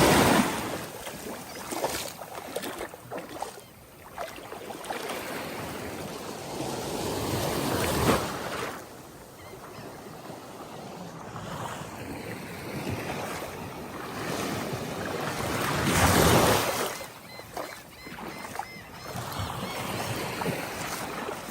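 Ocean waves washing onto a beach, surging up loudly near the start, about eight seconds in and again about sixteen seconds in, with wind buffeting the microphone.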